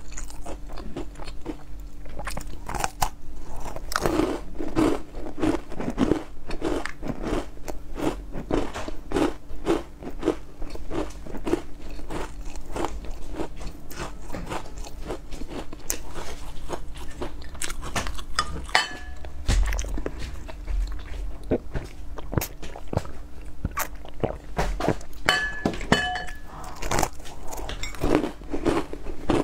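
Close-up crunching and chewing of a crisp snack: many quick, irregular crunches, several a second.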